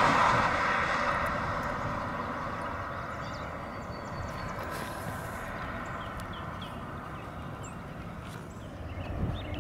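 Noise of a passing train fading away over the first few seconds, leaving a low steady rumble with small bird chirps; the low rumble swells again near the end.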